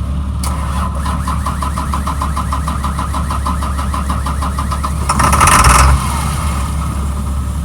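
Caterpillar 3126 inline-six diesel in a school bus running on starting fluid, with a fast, even clatter over a steady low hum. About five seconds in, a loud burst of noise lasts nearly a second before the engine settles back to the hum.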